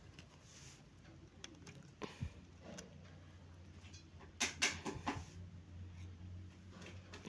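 Small handling sounds of cardboard and plastic toy-tractor parts being fitted: scattered clicks and rustles, with a louder crackly cluster about four and a half seconds in, over a faint steady low hum.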